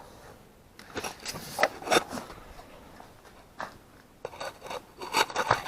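Metal hand tools scraping and clicking as they are handled, in short scratchy bursts about a second in and again near the end.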